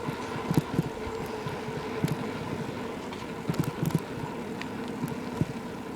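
Bicycle riding noise picked up by a camera taped to the bike's frame: a steady tyre and wind rumble with irregular small rattles and knocks from bumps in the road.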